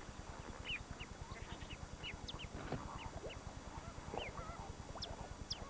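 Lakeshore birds calling: many short, high, falling chirps scattered throughout, with a few wavering lower calls, over a low pulsing hum.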